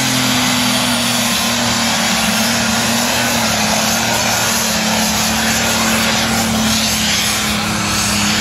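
A 3,500-horsepower competition pulling tractor running at full power while hauling the sled down the track. It makes a loud, steady engine drone with a wide hiss over it, holding level with a slight dip near the end.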